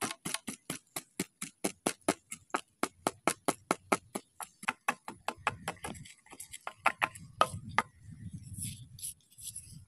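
Wooden pestle pounding chilies and salt in a bamboo-tube mortar: quick, even knocks about five a second, then slower, uneven strokes that stop about eight seconds in.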